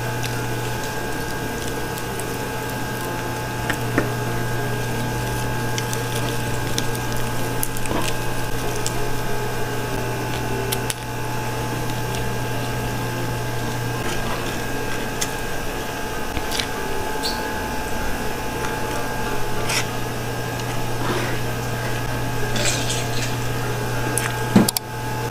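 Chewing of a crunchy lettuce leaf with scattered small eating clicks, over a steady low machine hum. A single sharp knock near the end.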